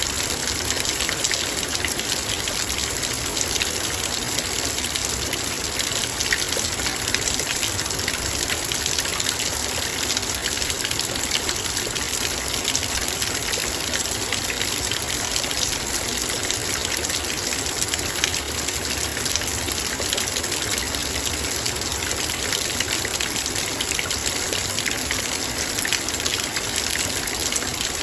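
Heavy rain drumming on a metal bowl: a dense, steady patter of countless drops hitting the metal and the water pooled in it, with no let-up.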